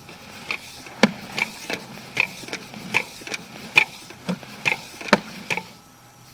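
A sewer inspection camera's push cable is being fed by hand into the line, giving irregular sharp clicks and knocks about two to three a second that stop about five and a half seconds in.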